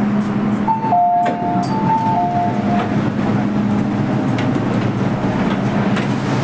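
Steady running hum and rumble inside an MTR M-Train carriage. A two-tone chime sounds twice, high then low, about a second in.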